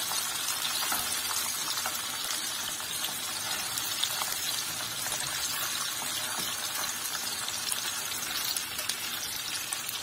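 Chicken wings shallow-frying in oil in a non-stick frying pan: a steady sizzle with small crackles.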